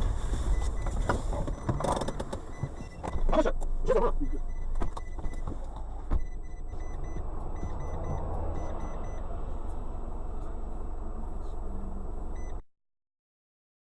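Car interior road and engine rumble picked up by a dash cam, with a few knocks about two to four seconds in and faint repeated beeping. The sound cuts off suddenly near the end.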